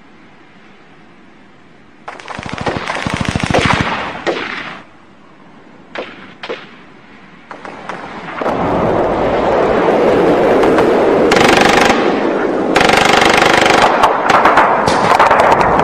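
Recorded war sound effect: a rapid burst of machine-gun fire about two seconds in, two single shots around six seconds, then a dense, continuous din of gunfire from about eight seconds on.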